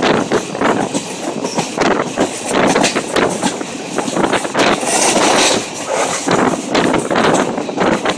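Passenger train running along the track, heard from aboard: a steady rumble and rattle of wheels on rail, loud and uneven in level.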